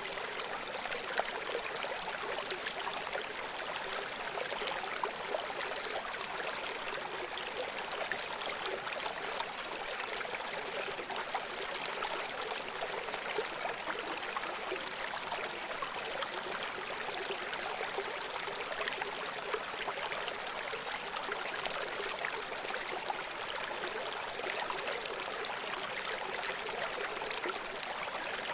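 Running stream: water babbling and trickling over rocks in a steady, unbroken rush, with many small splashes.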